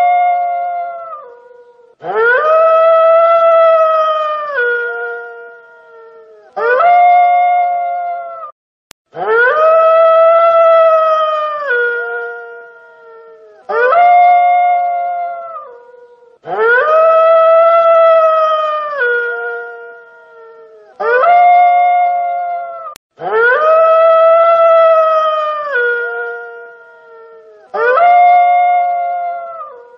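A wolf howling again and again, a long howl and a shorter one taking turns every few seconds at even spacing. Each howl rises quickly, holds a steady pitch, then drops at the end.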